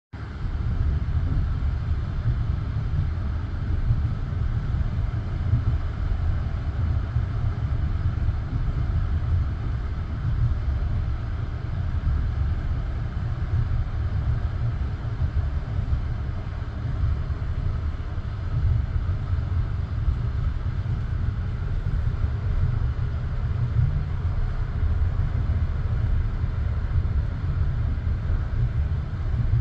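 Passenger train running along the line between stations, heard from inside a carriage: a steady low rumble of the wheels on the rails.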